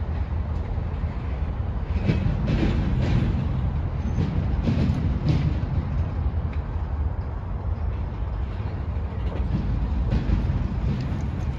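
Freight train cars rolling past: a steady low rumble of steel wheels on rail, with a run of sharp clicks and clanks about two to five seconds in.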